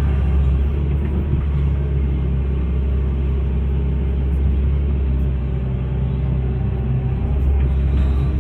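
Hitachi excavator's diesel engine running steadily, a deep even rumble.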